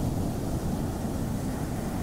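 Ocean surf washing on a beach, a steady deep rumble of water noise without a break.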